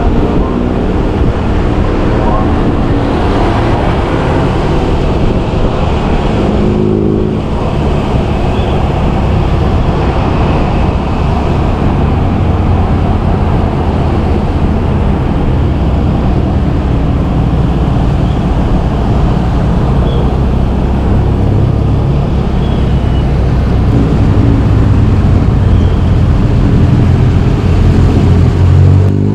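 Motorbike engine running steadily under the rider, mixed with road and traffic noise; the engine picks up speed at the very end.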